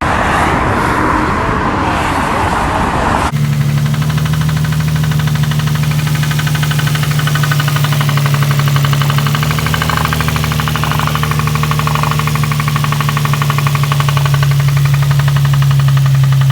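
A loud rushing noise for about three seconds, then, after a sudden change, an engine running steadily at an even pitch with a fast, regular pulse.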